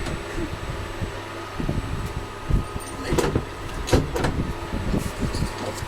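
Inside a sleeper train carriage: a steady low hum with scattered knocks and rattles, two sharp knocks standing out a little after three seconds and at about four seconds.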